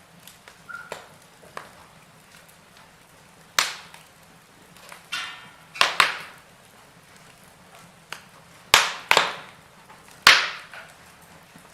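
Wood fire crackling: burning logs give about six sharp, loud pops, some in quick pairs, over a low hiss with faint small ticks in between. A brief hiss comes just before the pair of pops about six seconds in.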